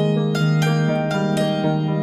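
Background music: a bright, plucked, harp-like melody over sustained notes, with a new note several times a second.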